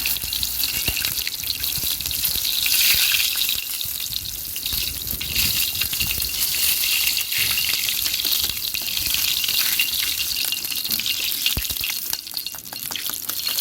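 Chicken sizzling as it fries in a pan over a wood campfire: a steady hiss with small scattered crackles.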